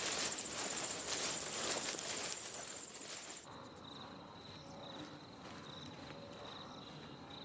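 Outdoor ambience with insects trilling in a fast pulsing, high-pitched chirr, over a rustling background. About three and a half seconds in, the sound changes abruptly to a quieter, lower-pitched pulsed insect chirp.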